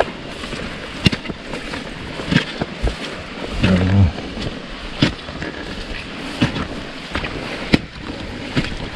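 Steady rain, with single raindrops tapping irregularly close by.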